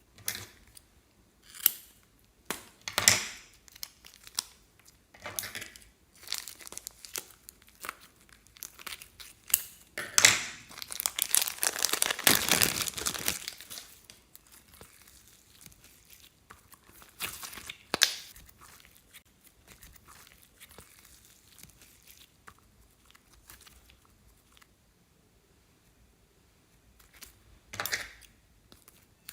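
Plastic being crinkled and torn open in short, sharp bursts, with one longer stretch of tearing and rustling about ten seconds in.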